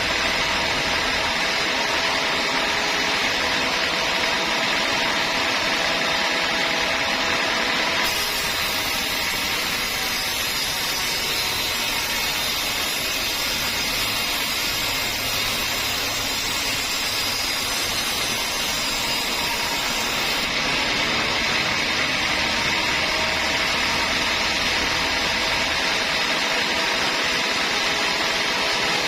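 Homemade sawmill bandsaw running steadily, its drive humming under a noisy whir. From about eight seconds in to about twenty seconds a brighter hiss is added on top, then it falls back to the plainer running sound.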